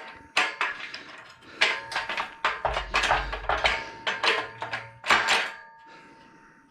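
Irregular knocks and clatter as CNC router table frame rails and fittings are handled and fitted together, with a brief low rumble near the middle.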